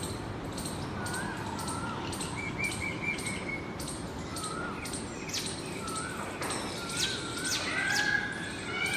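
Several small birds chirping and calling: short whistled notes that rise and fall, mixed with quick high ticks, growing busier in the second half, over a steady background hiss.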